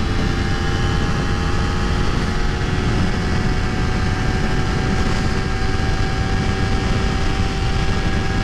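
Honda CBR250RR engine running near full throttle at highway speed, with one even engine note held at constant revs throughout, over a rush of wind on the helmet microphone.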